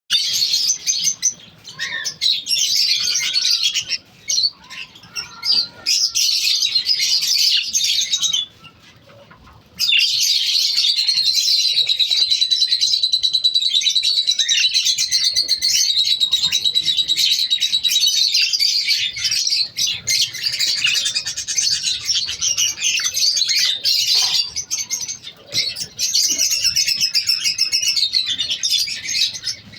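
Many small cage birds chirping and chattering together without a pause, high-pitched and dense, with a brief lull about nine seconds in.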